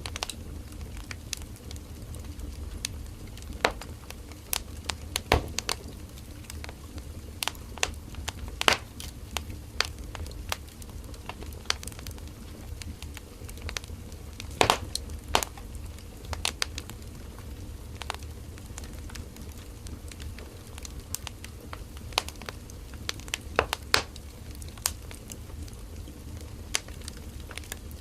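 Firewood burning in an open fire: irregular crackles and sharp pops of the wood over a low steady rumble of the flames, with a few louder pops about 9, 15 and 24 seconds in.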